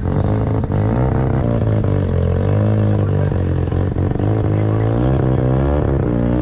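Car engine running, its pitch rising and falling slightly as the throttle is blipped.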